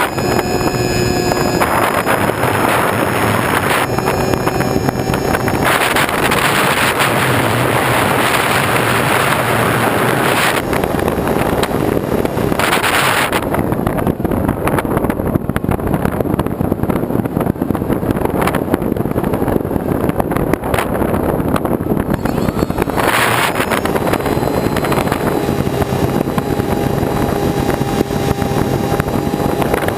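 Continuous rush of wind and travel noise over a moving vehicle's engine, with a faint steady engine hum underneath.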